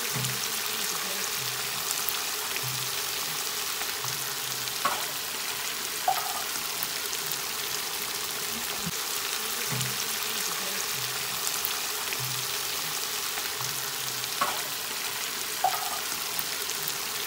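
Mutton pieces in thick masala sizzling steadily in a frying pan, with a few sharp clicks here and there.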